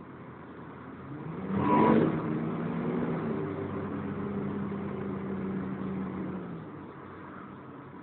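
Volvo B10BLE bus's diesel engine heard from on board. A sudden loud burst comes about two seconds in, then the engine pulls under load for a few seconds before easing off.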